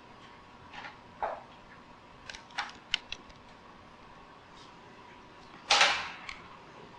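Sharp metallic clicks and snaps of pliers and tools working on a fluorescent light fixture during ballast removal, followed about six seconds in by one louder clatter lasting about half a second.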